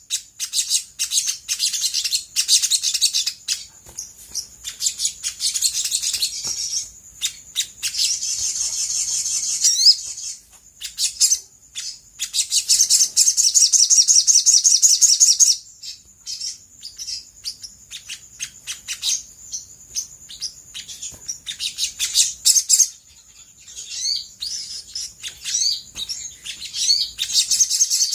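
Olive-backed sunbird singing: long runs of rapid, high-pitched twittering trills and chirps, broken by short pauses and a few quick upward-sweeping notes.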